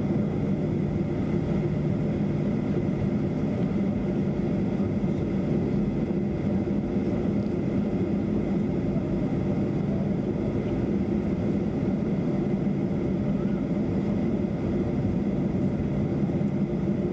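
Cabin noise of a Boeing 737-300 with its CFM56 turbofan engines running: a steady low drone with a faint high whine.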